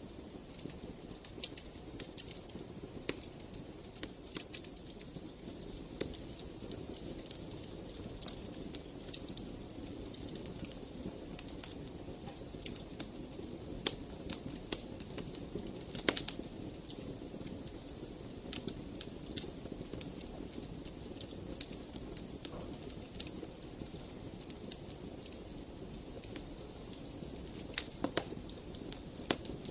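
Fire crackling in a fireplace: a steady low hiss with scattered sharp pops and snaps, a cluster of louder pops about halfway through.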